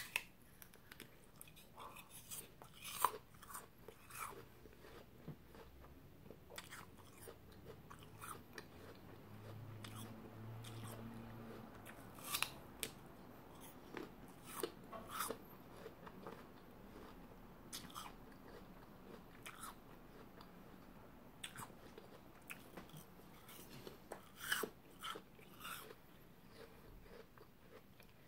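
Close-up chewing of crisp apple slices, with a scattered run of short, sharp crunches and wet mouth sounds.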